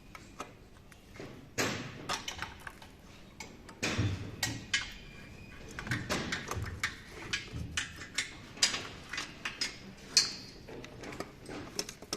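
Irregular metallic clicks, clinks and knocks of hand tools on engine parts during the teardown of a Nissan VQ35DE V6. One louder clink about ten seconds in rings briefly.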